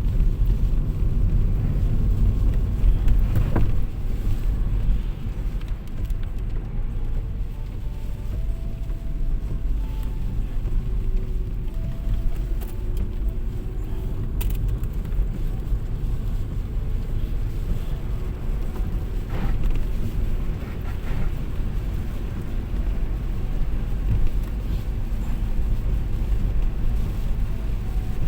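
Car driving, a steady low road and engine rumble heard from inside the cabin.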